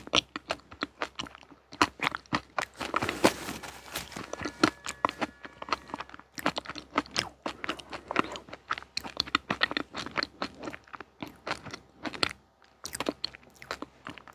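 A person chewing crunchy food close to the microphone: a dense, irregular run of crisp crunches, with a couple of short pauses.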